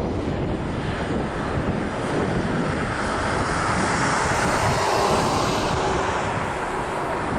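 Jet airliner engines, a steady rushing noise that grows louder to a peak about five seconds in and then eases off, as of a plane passing.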